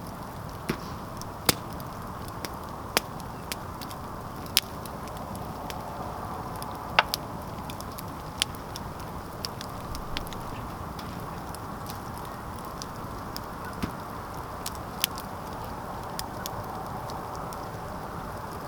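Outdoor campfire crackling, with sharp irregular pops from the burning wood over a steady low rushing noise. The loudest pops come in the first half.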